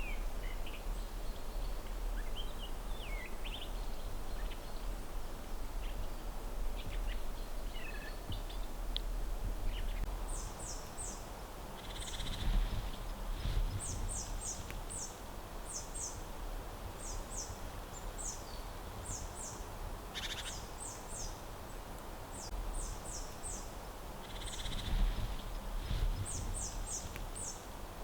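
Forest ambience: small birds calling, with scattered chirps at first and then quick runs of very high, thin chirps repeating every second or two. A steady low rumble runs beneath, with two brief louder swells of noise.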